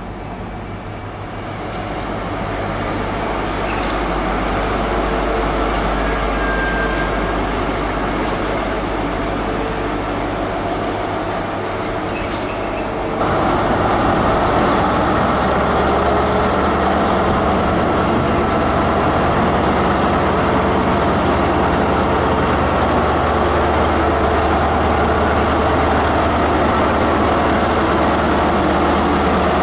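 A train approaching on the rails, growing louder, with high wheel squeals for a few seconds before the sound cuts abruptly. Then a High Speed Train's Class 43 diesel power car runs with a steady deep rumble as the train moves along the platform.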